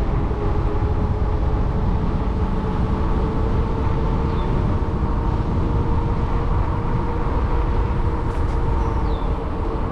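Steady wind rush and rumble on the microphone of a moving e-bike, with a steady hum from the e-bike's electric motor running under it.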